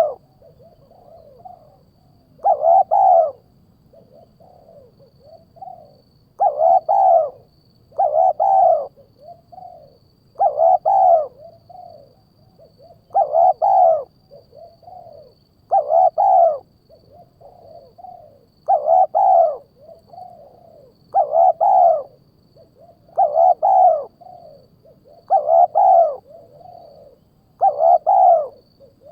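A bird-call lure recording for hawks: a loud arched call, doubled each time, repeating every two to three seconds, with softer calls between them.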